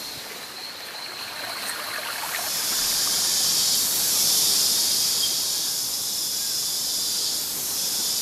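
Rainforest ambience: a dense, high-pitched insect chorus, steady and hissing, swelling louder about two and a half seconds in, with a few faint short calls before the swell.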